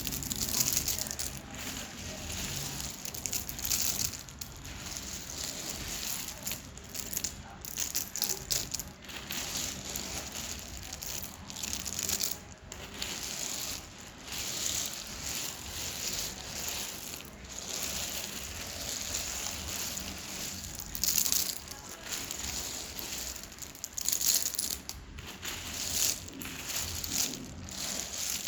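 Dry, crunchy edible clay crunching and crumbling in a long run of irregular, crackly crunches.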